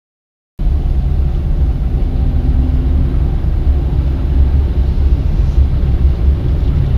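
Car driving: a steady low rumble of engine and road noise that cuts in abruptly about half a second in.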